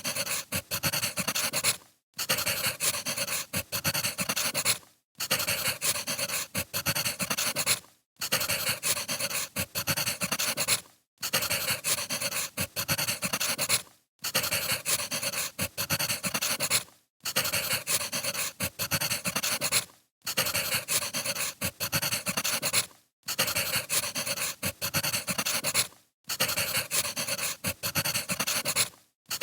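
Crackling wood fire ambience, dense small pops and hiss. It plays as a short loop that cuts out briefly about every three seconds.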